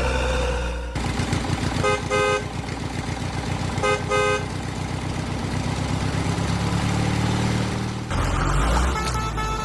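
Truck engine running with a fast, even chugging beat, and a horn giving two short double honks, about two seconds in and again about two seconds later.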